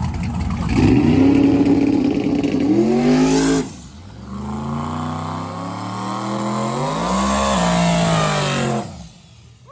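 Drag-racing engine revving hard, its pitch climbing and then cutting off about three and a half seconds in. Then an engine rises again to a peak, falls away and stops near the end.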